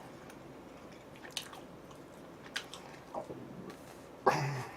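A person chewing and biting food close to the microphone, with a few small crisp crunches and clicks. Near the end comes a brief low vocal sound.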